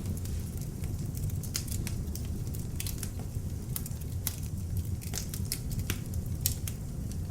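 Beech logs burning in an open fireplace: a steady low rush of flame with frequent, irregular sharp crackles and pops of the burning wood.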